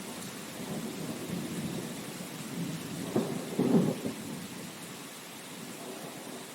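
Steady rain with low rolling thunder. The rumble swells to its loudest in two surges about three and four seconds in, then dies away, leaving an even rain hiss.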